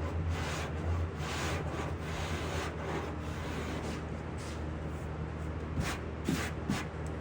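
Hand file rasping hardening body filler on a car door skin in irregular back-and-forth strokes to shape its profile, over a steady low shop hum.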